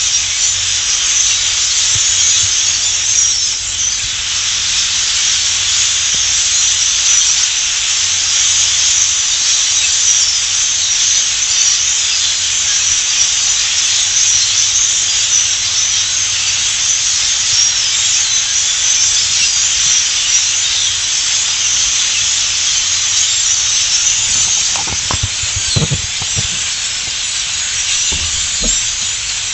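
A steady, dense high-pitched hiss, with a few low knocks near the end.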